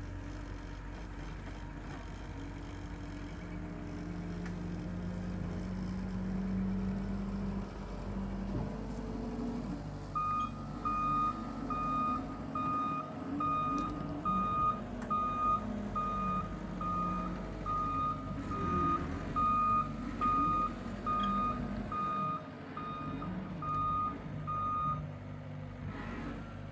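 The power-raking machine's engine running, then a reversing alarm beeping steadily, about three beeps every two seconds, for some fifteen seconds as the machine backs up.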